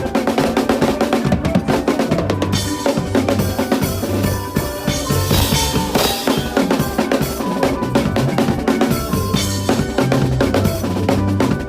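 Drum kit playing a fast makossa groove over band music, with bass drum, snare and rimshots.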